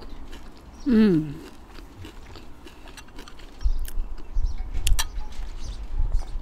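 Close-miked eating: a short falling vocal hum about a second in, then chewing with soft low thumps and a sharp click of cutlery from about halfway through.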